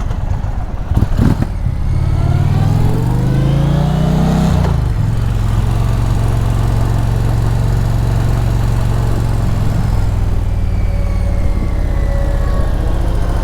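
Indian Challenger's big V-twin engine accelerating on the highway: the revs climb for a couple of seconds, drop sharply about four and a half seconds in at a gear change, then hold steady at cruising speed. A few short knocks come about a second in.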